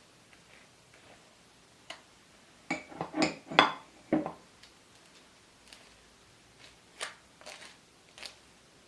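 Kitchen utensils and dishes clinking: a quick cluster of knocks and clinks, some ringing briefly, then a few lighter taps near the end.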